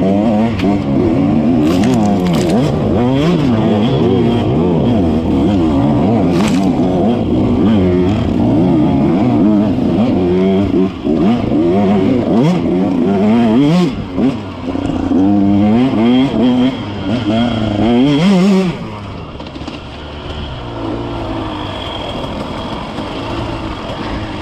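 Dirt bike engine revving up and down over and over as the bike is ridden hard through snow. About three-quarters of the way through it drops to a quieter, steadier run. A few sharp knocks are heard along the way.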